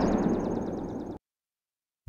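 Aerial fireworks: the rumble and fine crackle of a shell burst dying away, cutting off abruptly to silence about a second in.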